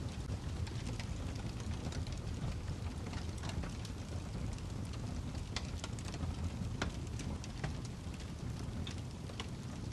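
Wood log fire burning in a fireplace: a steady low rumble with frequent sharp crackles and pops, a few louder pops in the second half.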